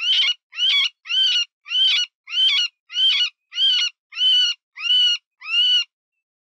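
Cottontail rabbit distress cries of the kind used as a predator call: about ten high, wavering squeals, repeated about twice a second. They stop shortly before the end.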